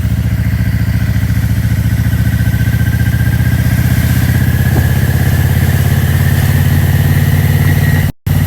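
Motorcycle engine running steadily with an even, rapid pulse, cutting out for a moment near the end.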